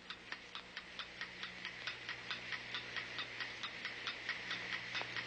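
Rapid, even ticking, about six ticks a second, growing slowly louder, over a faint low hum.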